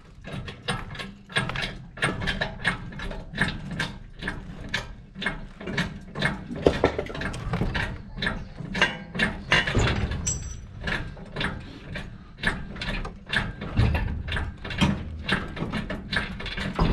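Metal ratcheting mechanism clicking rapidly in repeated strokes, with sharp metallic clicks and clanks.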